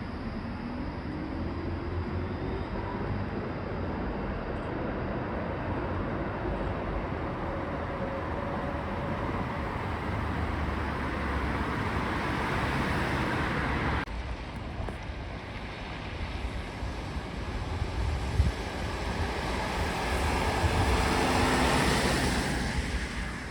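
A rail vehicle running with a steady rumble and rush, and a motor whine that rises in pitch during the first few seconds. About halfway through the sound breaks off abruptly and resumes. It then swells to its loudest shortly before the end, with another whine, and fades.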